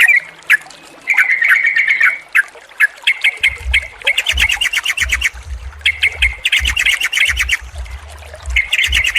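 Yellow-vented bulbuls chattering in quick runs of sharp repeated notes, in several bouts with short gaps. A low rumble sits under the calls from about a third of the way in.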